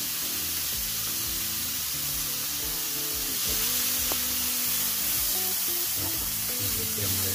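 Mushrooms sizzling steadily in hot ghee and oil in a kadhai, the hiss of their water cooking out, with background music playing.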